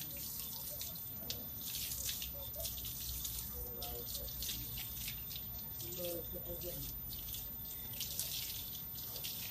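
Water spraying from a hose or shower onto a dog being washed, a steady uneven hiss and splatter.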